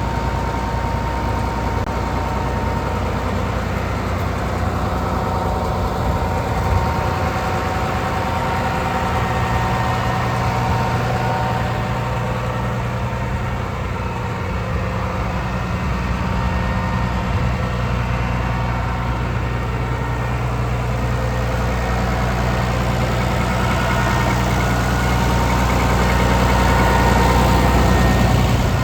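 Case IH 5130 tractor's six-cylinder diesel engine idling steadily, getting somewhat louder near the end.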